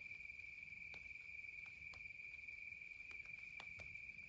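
Faint, steady chorus of crickets: one unbroken high trill. A few soft, scattered ticks sound over it.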